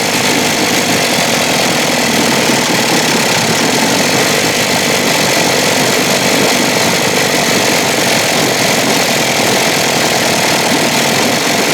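1956 Evinrude 7.5 hp two-stroke, two-cylinder outboard motor running steadily at low speed. It is running rough, with one cylinder cutting in and out, as the owner hears it.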